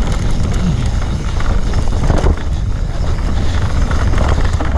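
Enduro motorcycle engine running as the bike is ridden, with heavy wind rumble on the microphone and scattered short knocks.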